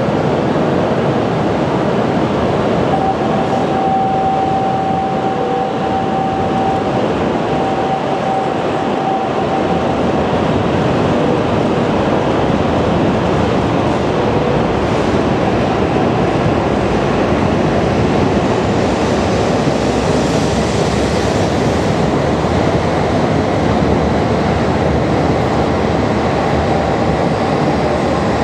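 Shinkansen train moving along the platform: a steady, loud rush of train running noise, with a thin steady whine from about 3 to 10 seconds in.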